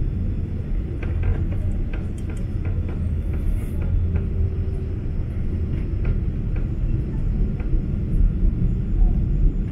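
Steady low rumble of a Boeing 777-200's engines and airflow, heard inside the passenger cabin.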